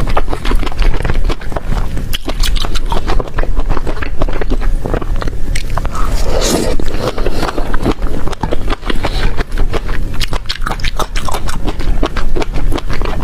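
Loud, close-up biting and chewing of crisp food: a dense, uneven run of crunches and crackles.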